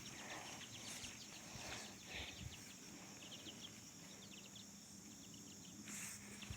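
Faint outdoor ambience: a steady high insect drone, with scattered faint bird chirps.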